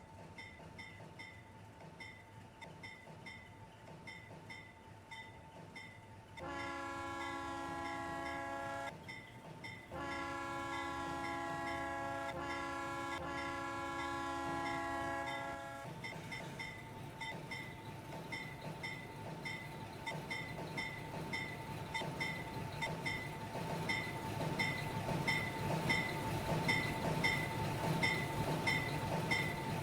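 A steam locomotive's chime whistle blows twice, a short blast and then a longer one, over a bell ringing steadily about twice a second. Afterwards the train's running noise grows steadily louder as it approaches.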